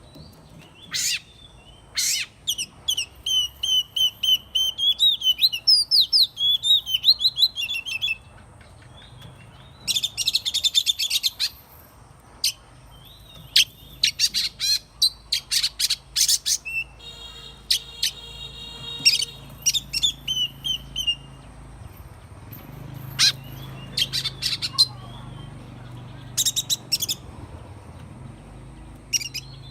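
Oriental magpie-robin singing: bouts of varied high whistles and quick rattling notes, broken by pauses of a second or two.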